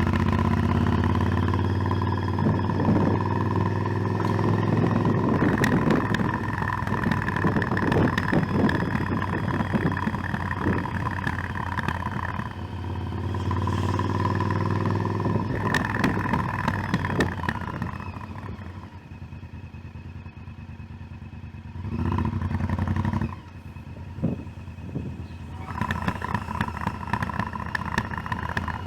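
Motorcycle engine running on the move, its pitch rising and falling with the throttle. Past the middle it eases off to a quieter stretch, then comes a short louder burst that cuts off suddenly, and it picks up again near the end.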